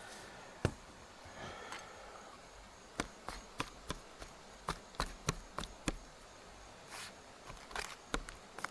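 A utensil jabbing into a thick raw steak, making sharp taps against the board beneath: a single knock just after the start, then runs of taps, several a second, from about three seconds in and again near the end. It is the meat being pierced to tenderise a tough cut before cooking.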